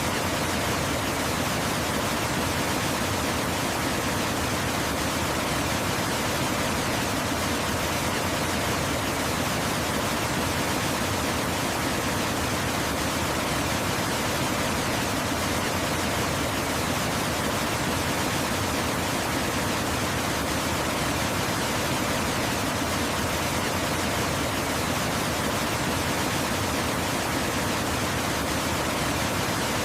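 Waterfall's water falling and flowing, a steady, unbroken rush with no changes.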